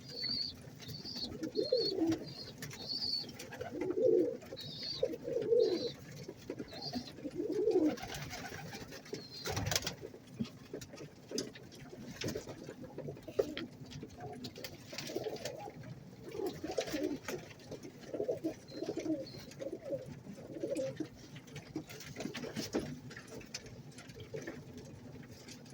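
Domestic fancy pigeons cooing again and again, with scattered light clicks. There are short high squeaks in the first few seconds, and a single sharp knock about ten seconds in.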